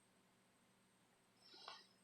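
Near silence: room tone with a faint steady high-pitched whine, and one brief faint sound about a second and a half in.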